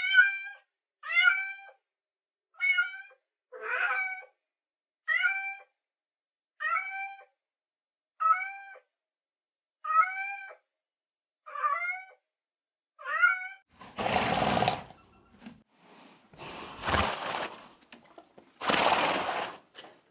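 A cat meowing over and over: about ten short, high meows, each rising then falling, a little over a second apart. Near the end come three louder, harsher noisy bursts.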